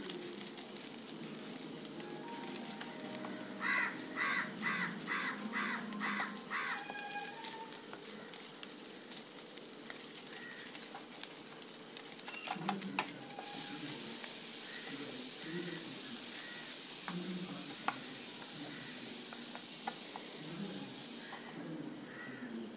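Scrambled egg, fried shallots and chilli sizzling in a nonstick frying pan as a wooden spatula stirs and scrapes through them, with scattered clicks of the spatula on the pan. The sizzle gets louder about halfway through. A bird calls about six times in quick succession a few seconds in.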